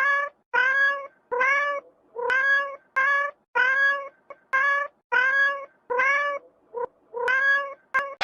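A cat meowing over and over: about a dozen short, high, evenly spaced meows, each rising then holding, with one clipped short call near the end.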